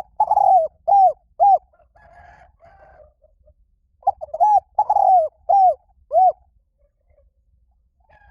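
Spotted dove cooing: two phrases of several arching coos each, the second beginning about four seconds in.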